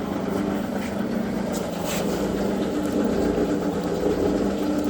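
Zocca 500 metal shaper running: a steady mechanical hum with machine noise.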